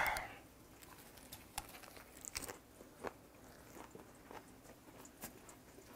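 Close-up chewing of a mouthful of lettuce wrap: faint, scattered crunches and wet mouth clicks.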